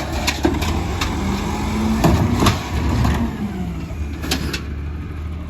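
Compost truck's engine running with a steady low hum, a whine that rises and then falls in pitch in the middle, and scattered knocks and rattles, the loudest pair about four seconds in.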